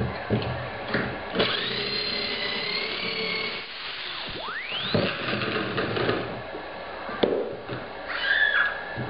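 Drill boring pocket holes in plywood through a Kreg pocket-hole jig: the motor whines up, runs and stops several times, with one clear rising spin-up midway, and sharp knocks between runs as the bit and workpiece are handled.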